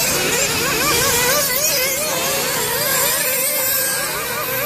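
Several nitro RC buggy engines screaming at high revs, their pitch rising and falling quickly and over and over as the throttles open and close.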